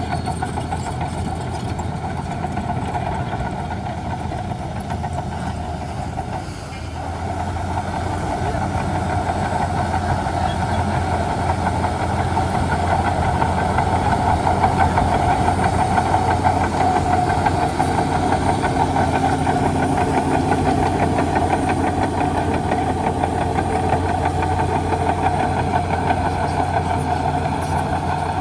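Heavy bulldozer's diesel engine running steadily under work; it eases off briefly about seven seconds in, then rises and runs louder.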